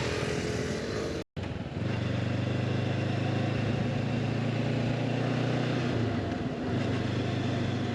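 Motorcycle engine running steadily while riding, with a broad rush of wind and road noise. The sound cuts out for a moment a little over a second in, and the engine note drops briefly around six and a half seconds before picking up again.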